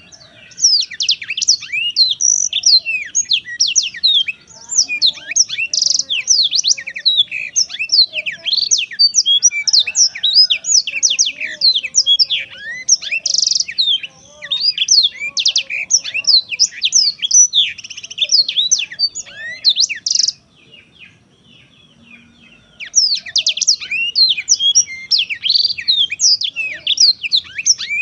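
Black-throated canary (yellow-rumped seedeater) singing a long, fast, varied song of high chirps and trills. It breaks off for about two seconds a little over two-thirds of the way in, then starts again.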